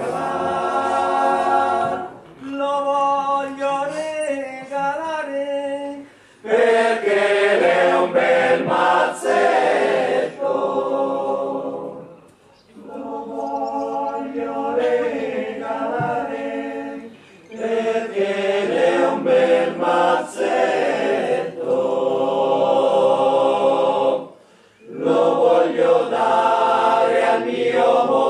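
A choir singing a cappella in long phrases, with short breaks between them.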